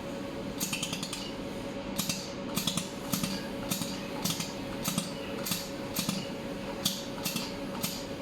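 200W xenon-lamp-pumped jewelry laser spot welder firing in continuous welding mode: sharp snaps about twice a second, one per laser pulse, starting about half a second in. A steady machine hum runs beneath.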